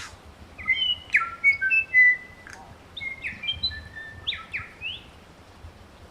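New Zealand bellbird (korimako) singing a string of clear, bell-like whistled notes, some held and some sliding down, loudest between one and two seconds in. A sharp click sounds at the very start.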